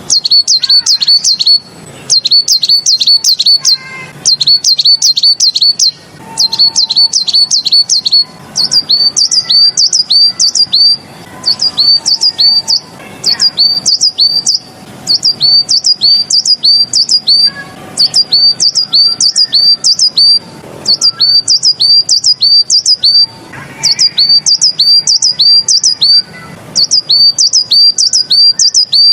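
A tit (the songbird Chinese keepers call 贝子) singing a Tieling-style song: rapid high, sharply falling notes strung into phrases of a second or two, repeated over and over with brief pauses between them. It is a recorded tutor song, used to teach young caged birds this song pattern.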